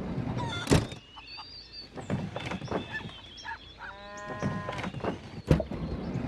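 House mouse squeaking: faint high squeaks among many sharp clicks and taps, with one short, several-toned squeaky call about four seconds in.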